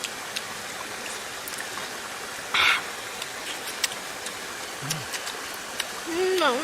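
Steady rush of flowing stream water, with scattered small clicks and a brief louder rush about two and a half seconds in.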